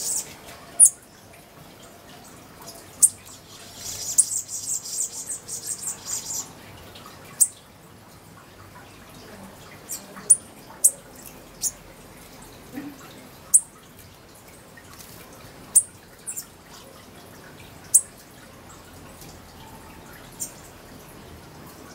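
Small birds giving sharp, very high chip calls, one every second or two, with a stretch of rapid high twittering about four seconds in.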